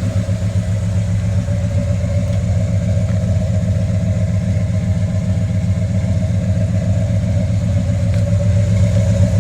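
1998 Chevy Silverado Z71 pickup's engine idling steadily with a low, even hum, getting slightly louder near the end.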